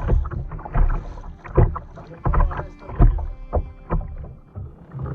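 Kayak paddle strokes: the blades dipping and splashing into the water at a steady paddling pace, a stroke about every three-quarters of a second, each with a low thump.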